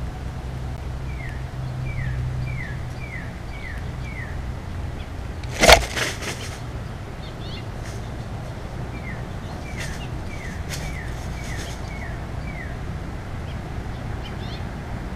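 A songbird calling a run of short, down-slurred whistles, about two a second, six in a row, then a second run later on. About a third of the way through comes a single sharp knock close to the microphone, the loudest sound, followed by a few fainter clicks, over a steady low outdoor hum.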